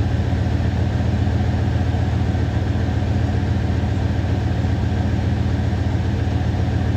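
Second-generation Dodge Ram 1500's Magnum V8 idling steadily with an even low rumble, still warming up after a cold start.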